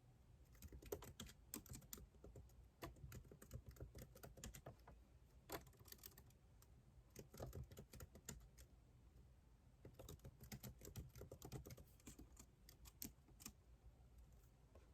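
Typing on a computer keyboard: quick, faint key clicks in runs of a second or two, broken by short pauses.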